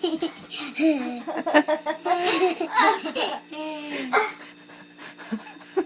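A young child laughing in repeated bursts of giggles, dying down after about four seconds.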